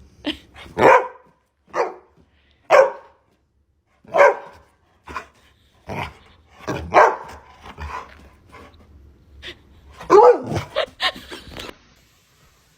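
A dog barking repeatedly, single loud barks about a second apart, bunching closer together near the end before stopping.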